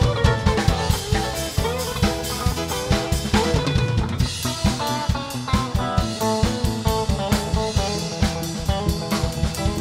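Instrumental rock band music: a drum kit drives a fast, steady beat on bass drum and snare under sustained guitar and bass notes, with no singing.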